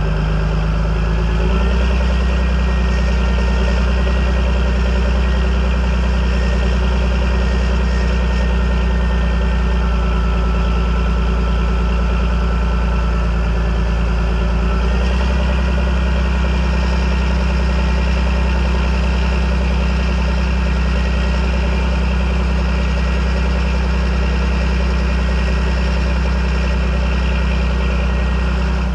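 John Deere 8420 tractor's six-cylinder diesel engine running steadily near idle. Its note shifts slightly about a second and a half in and again about halfway through.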